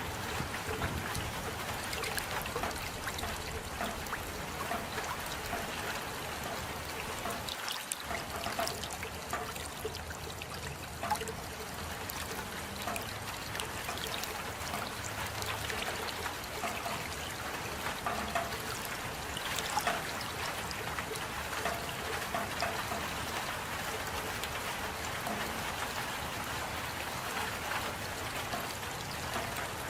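Steady rain: an even hiss of falling water with many small individual drops ticking through it.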